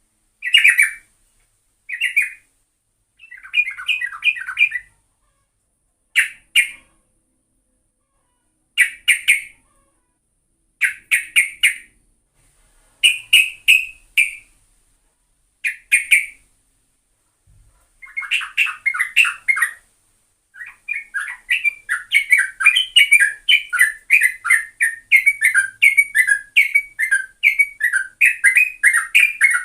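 Yellow-vented bulbul (trucuk) singing. Short bubbly phrases come a second or two apart, with a few longer gaps. From about two-thirds of the way in they turn into a fast, unbroken chattering run: the rapid 'ropel' song that birdkeepers play as a lure to set other trucuks singing.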